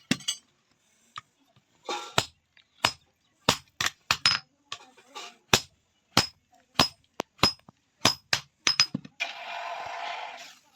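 Hand hammer striking metal at the forge, a run of sharp, ringing blows at an uneven pace, about two a second at times. Near the end the blows stop and a rough hissing noise runs for about a second and a half.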